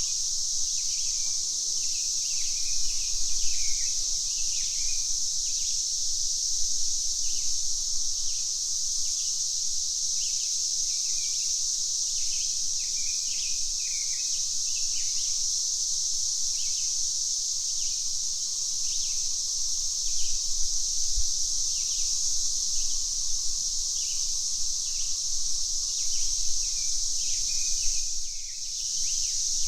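Cicadas droning in a steady, high-pitched chorus, with birds chirping over it throughout. The drone drops out briefly near the end.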